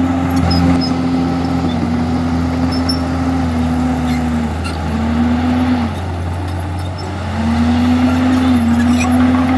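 Komatsu D51EX bulldozer's diesel engine running steadily under work; its note sags a couple of times around the middle, dipping in loudness briefly, then climbs back up near the end, typical of the engine loading and recovering as the blade pushes.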